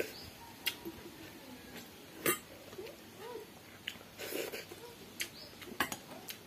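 Close-up eating sounds of a person eating soaked water rice with the fingers: wet chewing with a string of sharp lip smacks and mouth clicks, the loudest about two seconds in, and a short wetter, noisier stretch about four seconds in.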